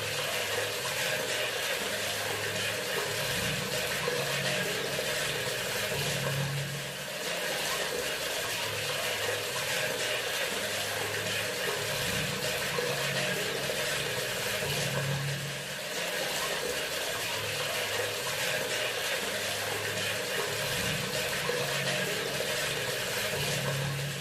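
Bathroom sink faucet running: a steady hiss of flowing water, with a low hum that comes and goes every second or two.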